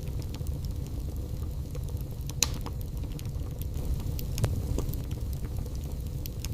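Wood fire burning in a fireplace: a steady low rumble of the flames with frequent small crackles and snaps, and a sharper pop about two and a half seconds in.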